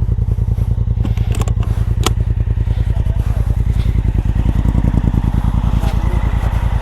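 Motorcycle engine idling steadily, with an even rapid pulse, and a couple of sharp clicks about a second and two seconds in.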